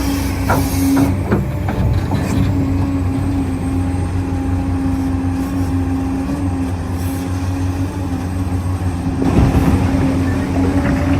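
Electric motors and gearboxes of 1:14-scale RC construction machines whining steadily, with a few clicks and knocks early on and a louder rush of noise about nine seconds in, typical of dirt being dug or dumped.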